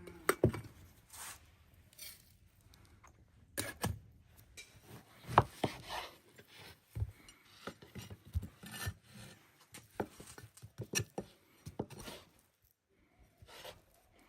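Irregular knocks, taps and scraping of objects being handled by hand, with the loudest knocks about four and five and a half seconds in.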